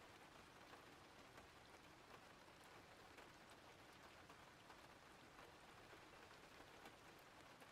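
Faint steady rain, an even hiss with scattered light drop ticks.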